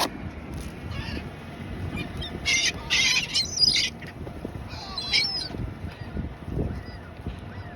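A flock of seagulls squawking as they scramble for thrown French fries, with a cluster of harsh, loud calls about two and a half to four seconds in and another just after five seconds.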